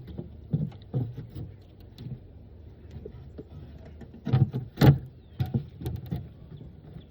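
Irregular knocks and clunks of a beehive being worked by hand, hive parts and frames being handled, with a cluster of louder knocks about two-thirds of the way through.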